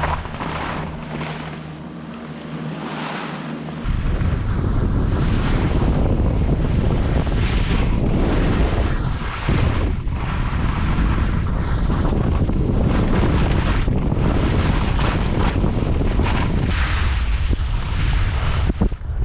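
Wind buffeting the microphone. It is lighter for the first few seconds, then turns loud and continuous about four seconds in, as when the camera moves through the air at speed.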